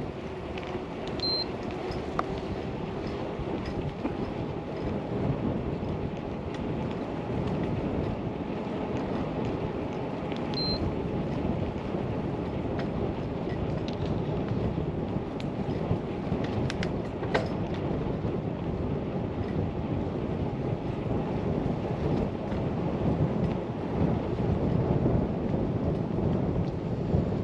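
Steady rumbling noise of riding a bicycle on a road: wind on the microphone and tyres on the pavement. Two brief high peeps sound over it, one about a second in and one about ten seconds in.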